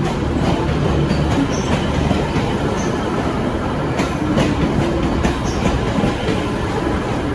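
V/Line VLocity diesel train rolling by with a steady rumble. Its wheels knock over the rail joints a couple of times about four seconds in, and brief faint wheel squeals come and go.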